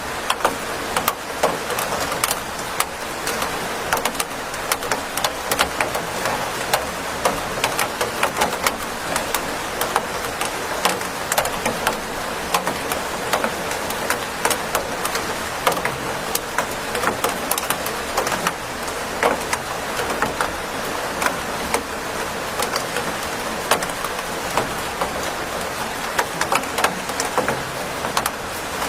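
Steady rain falling, with many close, individual drops striking a surface as sharp little taps over a constant hiss.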